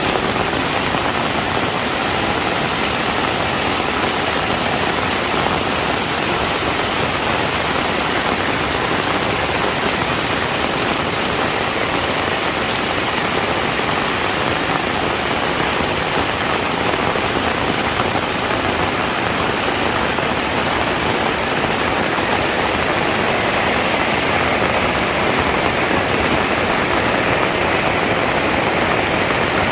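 Heavy rain falling steadily, a constant dense hiss of drops with no breaks or changes.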